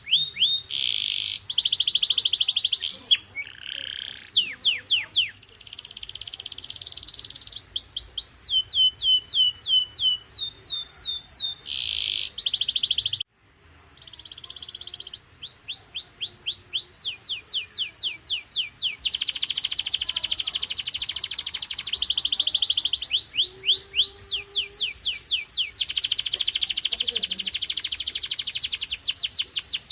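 Canary singing a full song: rapid rolls of repeated downward-sweeping whistled notes alternating with dense, fast trills. There is a brief pause about 13 seconds in.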